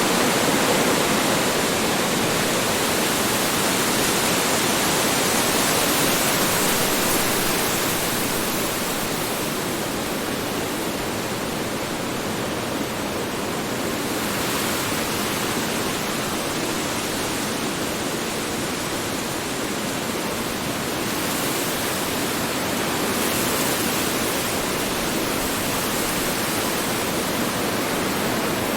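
Strong wind blowing steadily, a dense rushing that swells and eases gently in strength.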